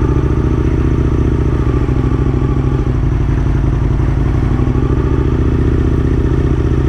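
Aprilia RSV1000's V-twin engine running at steady revs as the motorcycle is ridden along, with an even, pulsing exhaust note.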